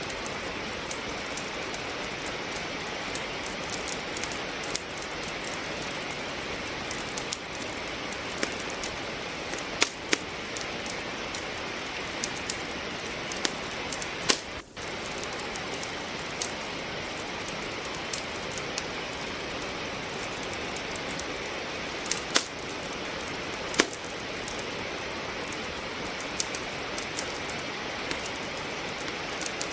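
Steady rain with a wood fire crackling in a fireplace: scattered sharp crackles and a few louder pops over an even hiss of rain. The sound drops out for a split second about halfway through.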